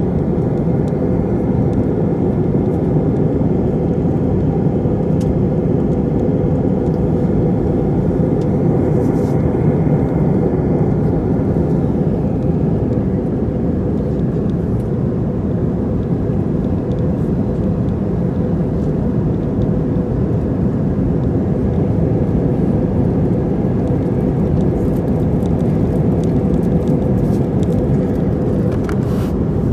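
Steady airliner cabin noise in flight: a deep, even rush of engine and airflow with a steady hum, and a few faint clicks near the end.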